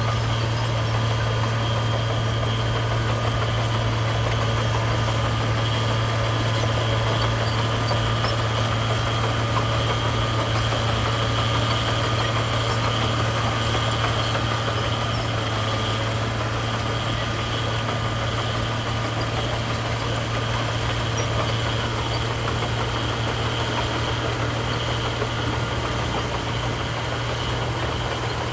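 Diesel engine of a heavy construction machine running steadily at a low, even speed: a constant low drone with a faint steady higher whine.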